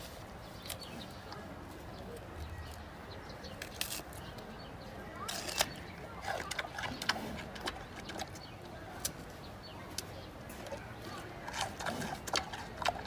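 Giant panda chewing and snapping bamboo: irregular sharp crunches and cracks, thickest near the middle and again near the end.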